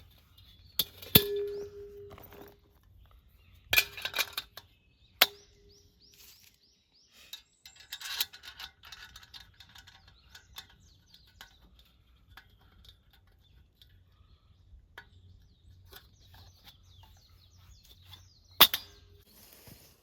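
Camp gear being handled: four sharp knocks, some followed by a short ring, among quieter rustling and clicking, with faint bird chirps.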